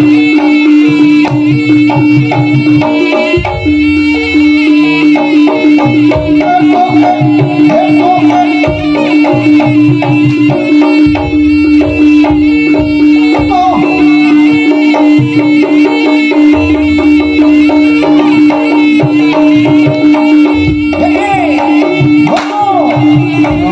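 Javanese jaranan music played by a gamelan ensemble, loud, with busy hand-drum patterns, a wavering melody line and a steady drone held underneath.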